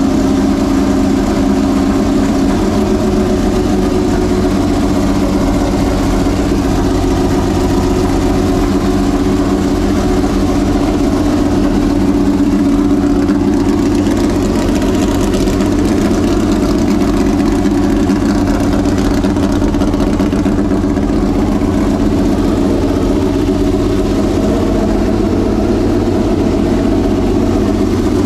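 Homemade V12 race engine idling steadily through its bare exhaust headers, running again after months in storage.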